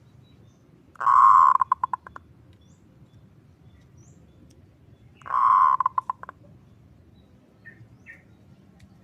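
Zebra dove (perkutut) calling twice, about four seconds apart. Each call is a dense rolling burst followed by a quick run of short staccato notes, the kerot call used as a lure and training song for perkutut.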